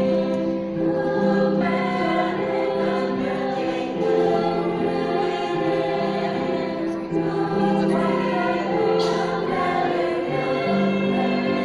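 A choir singing a slow song in long held notes, moving from chord to chord every second or two.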